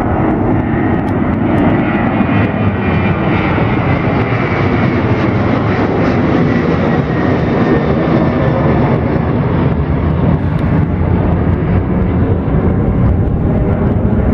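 Jet airliner engines running loud and steady, a broad rumble with hiss above it.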